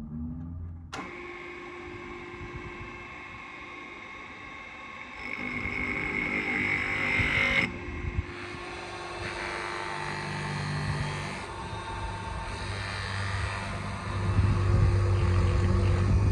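Workshop power tools running in a series of short shots: an electric motor starts about a second in, with a steady whine and grinding noise that swells in the middle and cuts off abruptly, then other machine noise, and a deep steady hum in the last couple of seconds.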